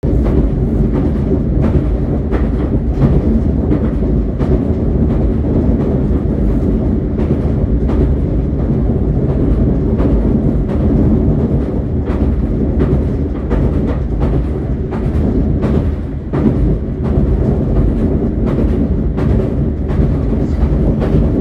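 Passenger train running along the line, heard from inside the carriage: a steady low rumble with frequent short clicks from the wheels and track.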